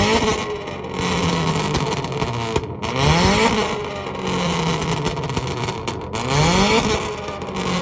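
Car engine revved hard three times in a row, each rev rising sharply in pitch and then falling back to a lower held note, about every three seconds.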